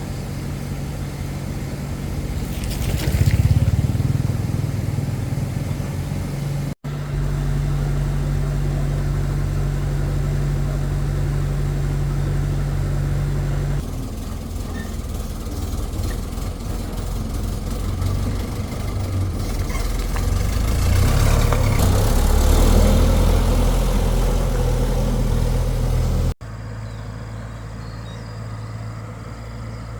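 Excavator's diesel engine running steadily, its low hum swelling and easing as it works. It breaks off abruptly twice, at about 7 seconds and near the end, and the engine sound changes after each break.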